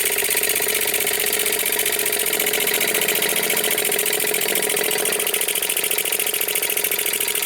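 Old four-stroke petrol engine converted to run on compressed air through a slide valve, running just after the air is turned on: a steady, fast, even pulsing hiss of exhaust air with mechanical clatter.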